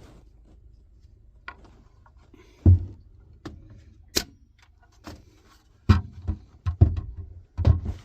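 A run of separate clicks and heavy knocks from a BB air gun and an outboard fuel injector being handled, as the gun is used to blow air through the injector and the injector is tapped out. Two sharp clicks come in the first half, then a cluster of heavier knocks in the last few seconds.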